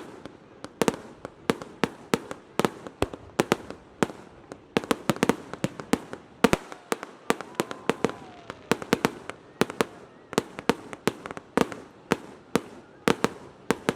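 Fireworks display going off: sharp, echoing bangs in rapid, irregular succession, several a second, with one especially loud bang about halfway through.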